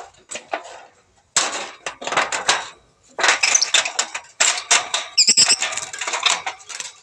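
Lovebird chattering in rapid harsh clicking bursts, with a few short high chirps about five seconds in.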